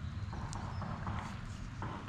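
Footsteps, several short irregular steps, over a steady low rumble.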